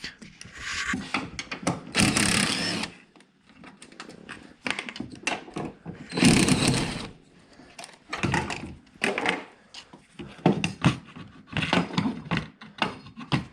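Hand tools working small bolts on a car's accelerator pedal sensor bracket: irregular ratchet clicks and metal clinks, with two longer scraping, rustling stretches about a second in and again about six seconds in.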